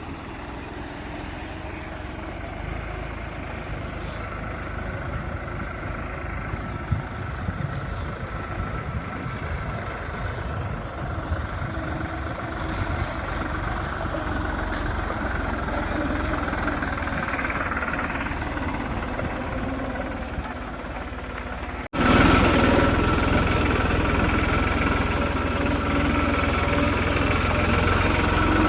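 New Holland 3630 tractor's diesel engine running while the tractor is driven, a steady sound that grows slowly louder. About 22 seconds in it cuts abruptly to a louder, closer engine sound.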